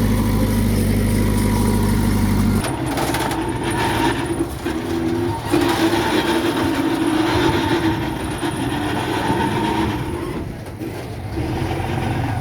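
Diesel engine of heavy earthmoving machinery running. It runs with a steady, even drone at first. About two and a half seconds in, the sound changes abruptly to a rougher, noisier engine sound with a wavering drone, as of a machine working under load.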